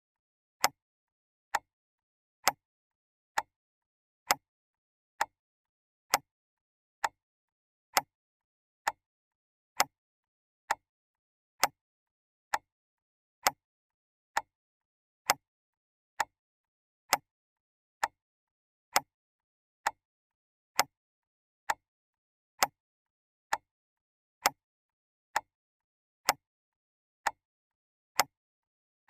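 Clock ticking: a sharp, even tick a little more than once a second, alternately slightly louder and softer like a tick-tock, with dead silence between the ticks.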